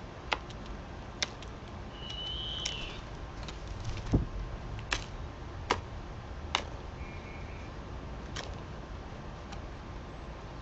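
A short bird call about two seconds in and another brief one near seven seconds, amid a scatter of sharp clicks and taps over a steady background hiss.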